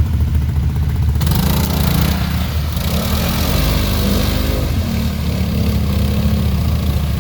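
Off-road vehicle engine running, then revving up about a second in as it drives into a mud hole, with a rush of noise from the tyres and mud. The engine note rises and falls over the next few seconds.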